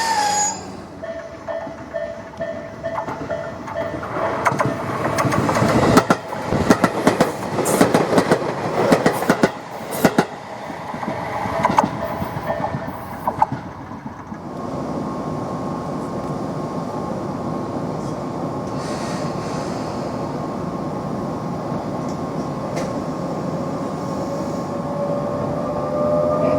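Tobu 20400 series electric train running. For the first half it clatters loudly over rail joints, with a held tone under it. Then it settles into steady running noise with a steady tone, and near the end a slowly rising whine comes in from its Toyo GTO-VVVF inverter.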